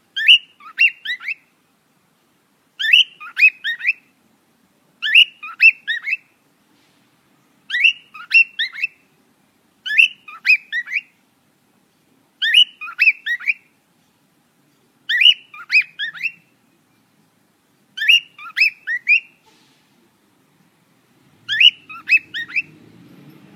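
A bird singing the same short phrase over and over, a quick run of three or four down-slurred chirps about every two and a half seconds.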